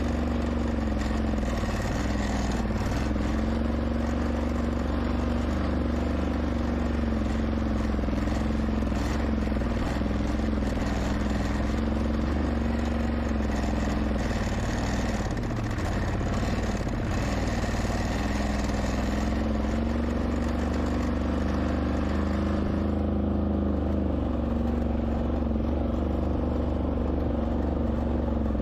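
Small ATV engine running steadily as the quad is ridden, its pitch wavering up and down with the throttle.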